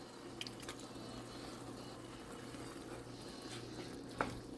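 Ground beef and tomato-cream sauce simmering in a pot on the stove, a faint steady bubbling, with a light tap about four seconds in.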